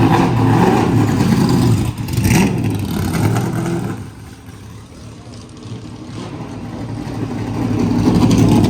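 Race car engines at speed on a nearby circuit, loud for the first few seconds, fading about four seconds in, then building again near the end as another car comes by.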